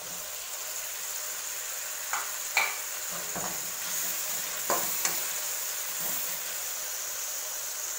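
Chopped onions and freshly added tomatoes sizzling in hot oil in a kadhai, with a perforated metal spatula scraping and knocking against the pan several times as it stirs them.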